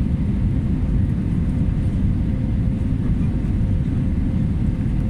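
Airbus A320 airliner noise on its landing approach: a steady low rumble with a faint, constant hum.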